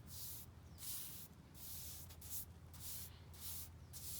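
Paintbrush bristles swishing back and forth over matte motorcycle paint, spreading vinyl and rubber dressing in quick, even strokes, about two a second.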